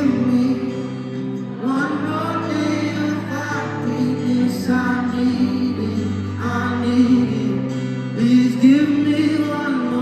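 A live pop ballad: a male singer sings phrases of a couple of seconds each, bending in pitch, over sustained keyboard and band accompaniment.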